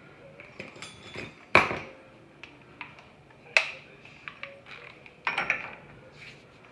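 Sharp metallic clanks and clinks of steel tools against a truck's front hub, three louder ones roughly two seconds apart with smaller ticks between, as the hub fastener is torqued with a pry bar braced between the wheel studs.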